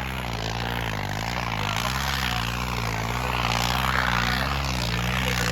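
Tractor engine running hard, its pitch wavering up and down about twice a second.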